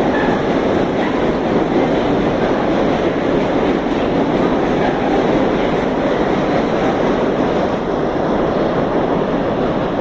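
Freight train hauled by a Class 70 diesel locomotive passing through, its wagons rolling over the rails in a loud, steady rumble that eases slightly near the end.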